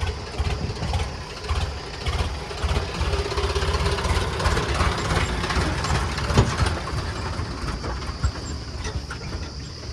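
Tata truck engine running, a steady low, pulsing throb.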